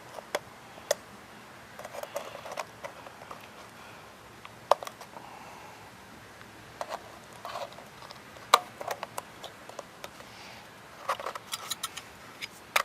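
Scattered clicks, taps and short scrapes as a cut-open spin-on oil filter's casing and internal parts are worked at by hand, trying to free a stuck element.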